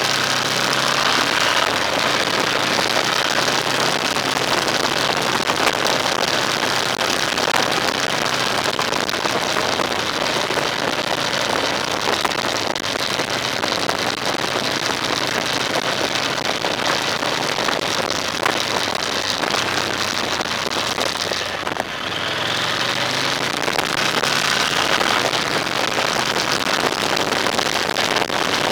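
A motor vehicle's engine running under way, with a steady rush of wind and road noise and the engine note rising and falling. About three-quarters of the way through the sound dips briefly, then the engine pitch climbs again as it picks up speed.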